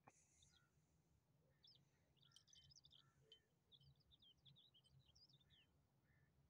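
Faint chirping of small birds, many short scattered notes, with a single sharp click at the very start.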